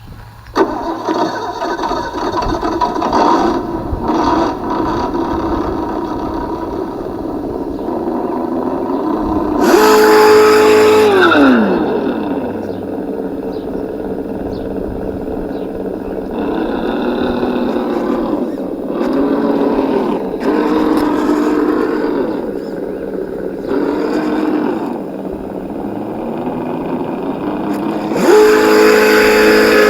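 Electronic engine sound kit on an RC crawler playing a simulated engine that idles and revs with the throttle. There is a loud rev about a third of the way in that winds back down, several shorter rises and falls after that, and another loud rev near the end.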